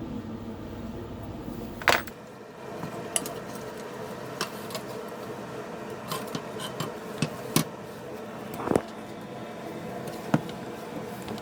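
Metal fan parts and hand tools clinking and tapping as the antique fan is taken apart: about eight sharp clinks spread unevenly, the loudest about two seconds in and another near the end, over a steady background hum.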